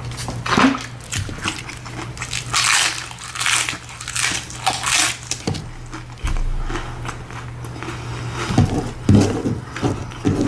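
Crunching and chewing of hard taco shells close to the microphone, in repeated crackly bites.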